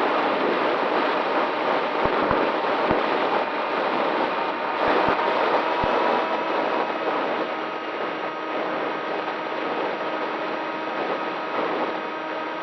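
Electric motor and propeller of an RC model plane running steadily with rushing air, a few clicks in the first half.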